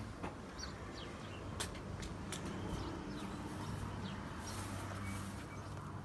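Small birds chirping now and then over a low steady hum, with a few sharp clicks.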